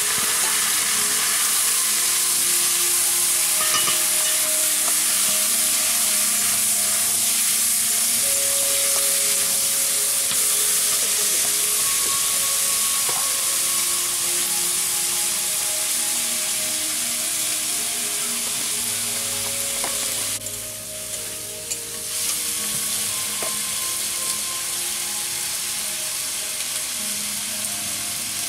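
Chopped pieces and potatoes frying in oil in an aluminium karahi over a wood fire, with a steady sizzle and the light scrape and clink of a metal spatula stirring. The sizzle dips briefly about two-thirds of the way through.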